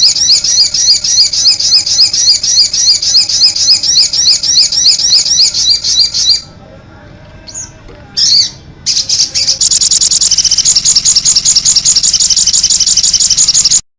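Sogon (crimson sunbird) calling: a loud, fast, even string of high chirps, several a second, that breaks off for a few seconds with one short chirp before the chirping starts again and cuts off suddenly near the end.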